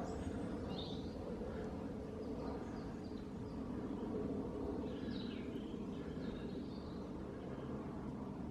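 Outdoor woodland ambience: a few short, high bird chirps scattered over a steady low background noise.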